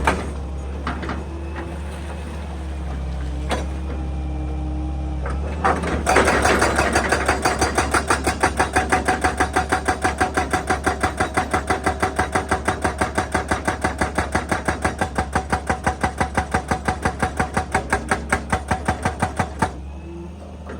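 Excavator diesel engine running, then a hydraulic breaker hammering rock at about five blows a second from about six seconds in, stopping shortly before the end.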